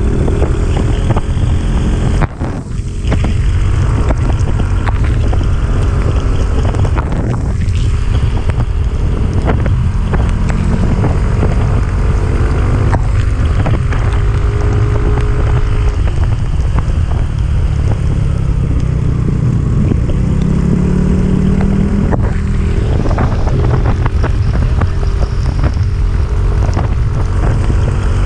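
Motorcycle engine running while under way, with wind rushing over the microphone; the engine pitch rises about two-thirds of the way through.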